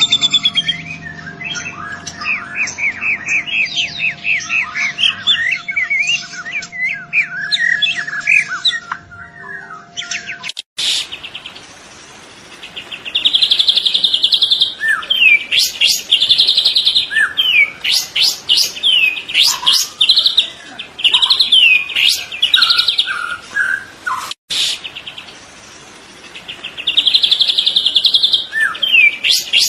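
Young white-rumped shama (murai batu trotol) singing a varied song: rapid chirps and sweeping whistles, with loud repeated buzzy trills after the first cut. The recording is spliced twice, about a third of the way in and again near the end, and a faint steady hum runs under the first part.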